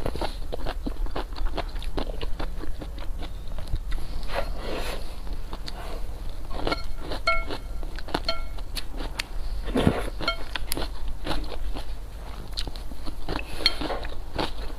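Close-miked eating: chewing with frequent mouth clicks and smacks. A few brief squeaky tones come in the middle.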